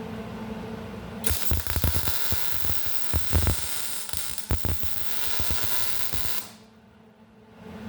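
Electric arc welder welding a nut onto a broken exhaust manifold stud. The arc starts about a second in as a crackling hiss with irregular pops, runs for about five seconds, then stops suddenly.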